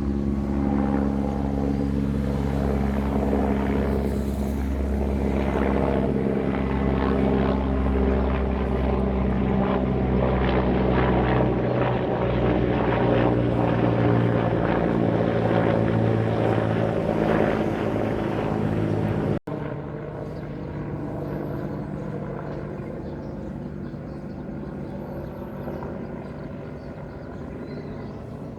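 A vehicle engine drones steadily. About two-thirds of the way through the sound cuts abruptly, and a quieter engine drone carries on.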